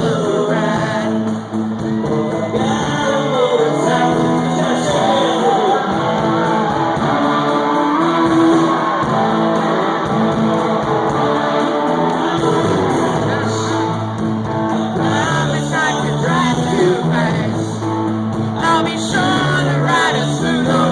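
Live country-rock band playing, with lead singing over guitars, recorded on a phone's microphone in a large hall.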